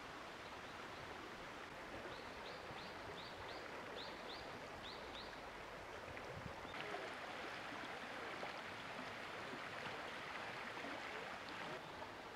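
Steady rush of a stream flowing, growing a little louder about halfway through. A bird calls a quick series of about ten short, high notes in the first half.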